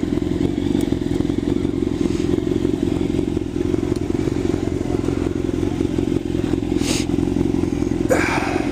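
Motorcycle engine running steadily at low revs, a fast even pulsing throb with no change in speed. A brief click about seven seconds in.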